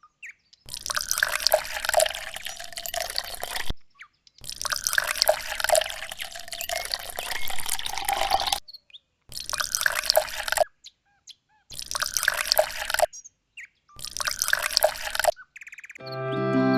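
Water trickling and splashing, heard in several short stretches broken by abrupt silences. Music begins near the end.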